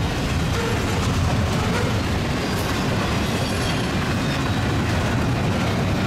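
Union Pacific double-stack intermodal freight train passing close by at speed: a steady rumble of the well cars' wheels on the rails, with a few light clicks.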